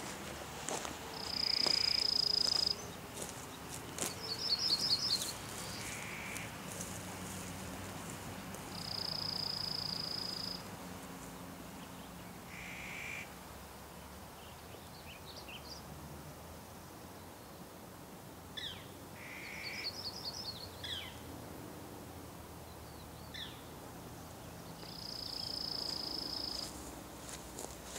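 Wild birds calling: a long, high, steady whistled note comes three times, with two short rapid trills and a lower, shorter call repeated now and then in between.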